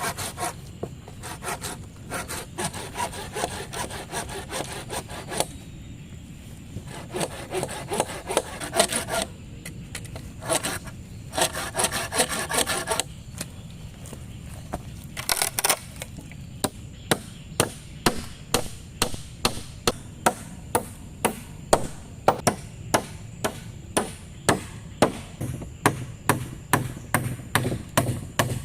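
A hand saw cutting wood in several runs of quick rasping strokes, then, from about halfway in, a steady series of sharp chopping strikes about two a second.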